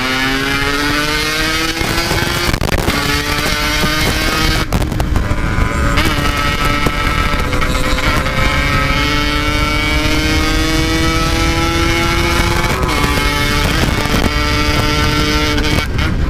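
Yamaha RX-King single-cylinder two-stroke motorcycle engine under way, its pitch climbing as it accelerates and dropping at gear changes about three seconds in and again near the end, with a low wind rumble underneath.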